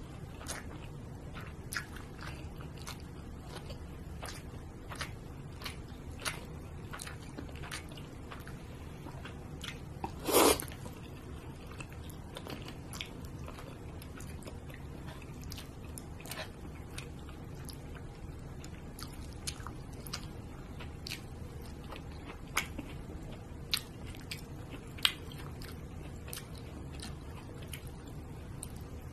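Close-miked chewing and wet mouth clicks of a person eating grilled wagyu beef with rice, with many small sharp clicks throughout. One louder half-second noise about ten seconds in.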